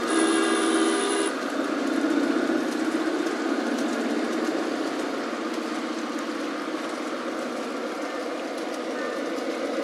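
Garden-scale model diesel railcar running along the track: a steady motor hum with wheel and rail noise, and a brief held tone in the first second or so. It fades gradually as the railcar moves away.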